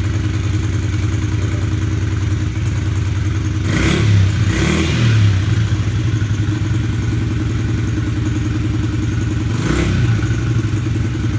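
Motorcycle engine idling steadily, revved briefly about four seconds in and again near the end.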